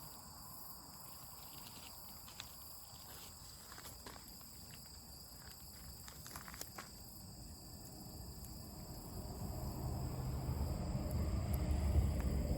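Steady high-pitched chirring of crickets, with scattered sharp clicks and crackles over the first several seconds. A low rumble swells over the last few seconds.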